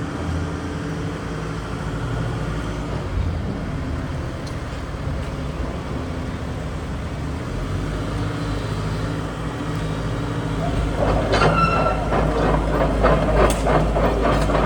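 Volvo EC140BLC crawler excavator's diesel engine running steadily. Near the end, loud metal clanking and squealing sets in over the engine, the kind made by steel tracks or the machine's working parts as it moves.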